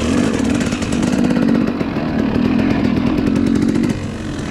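Small dirt bike engine running at a steady speed, then easing off about four seconds in.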